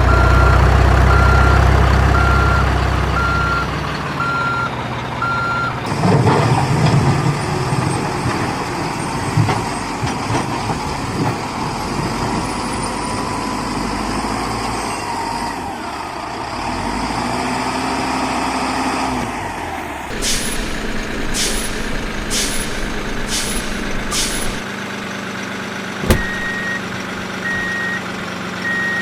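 Heavy truck and construction-machine engines running, with a reversing alarm beeping during the first few seconds and again near the end. A little past halfway comes a run of five short hissing bursts, about one a second, and near the end a single sharp click.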